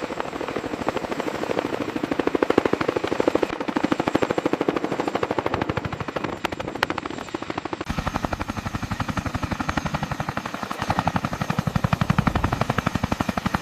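Large helicopter's rotor beating in a rapid, even thumping pulse as it lifts off. The sound changes abruptly about eight seconds in.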